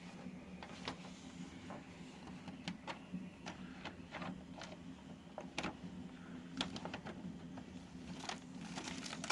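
Scattered light clicks and taps at an irregular pace, growing denser near the end, over a faint steady low hum.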